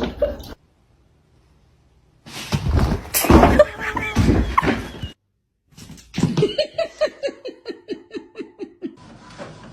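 Clips cut one into another: first a loud, noisy scuffle with voices. Then, after a short gap, a person laughs in a run of quick, even 'ha-ha' pulses, about four a second, that fade out over a few seconds.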